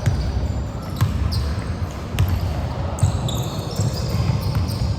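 Basketball bouncing on an indoor court floor, a few bounces about a second apart, over the steady rumble of the gym, with short high squeaks in the second half.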